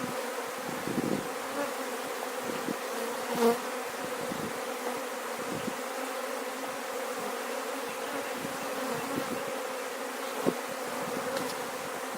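Honeybees buzzing in a steady drone from an opened hive, the colony stirred up by the inspection. The buzz swells briefly about three and a half seconds in.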